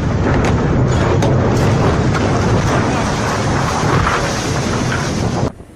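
Loud, steady rush of storm wind on the microphone mixed with sea noise aboard a ship, heaviest in the low range. It cuts off suddenly near the end.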